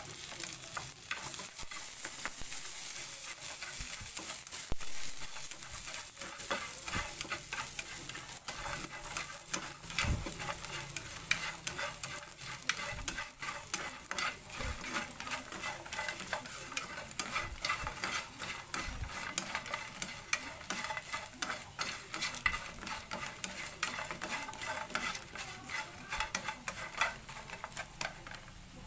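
Marinated sparrow meat sizzling as it is stir-fried in a hot pan, with frequent quick scrapes and clicks of the utensil stirring it; the sizzle fades near the end.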